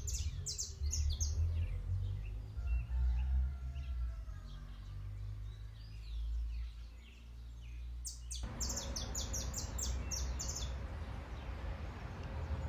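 Birds chirping in quick high bursts, with fainter calls between, over a steady low rumble. The background noise changes abruptly about eight seconds in.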